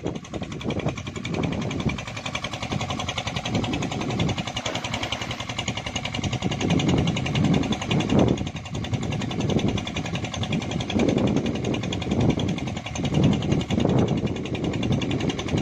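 A steady engine-like drone with a fine, buzzing upper texture, with uneven louder low swells every few seconds.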